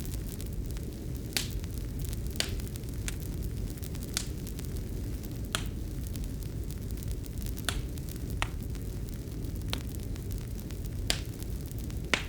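Fireplace fire burning: a steady low rumble with sharp, irregular crackles and pops, about ten of them, roughly one every second or so.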